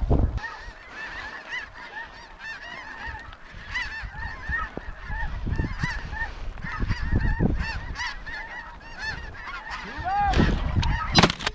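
A large flock of snow geese calling overhead, a dense chorus of short high honks. A shotgun shot comes right at the end.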